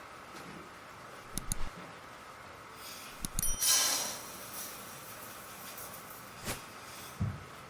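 A few short knocks and clatters of things being handled, with a longer, louder scraping rustle a little over three and a half seconds in, over a faint steady background tone.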